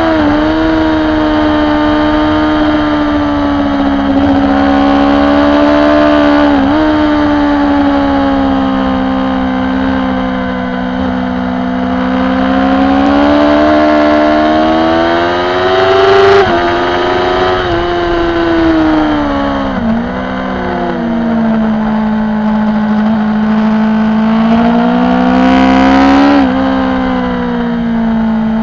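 BMW S1000RR's inline-four engine heard from onboard at racing speed, its pitch rising and falling with the throttle through the corners. There are several sudden dips in pitch along the way.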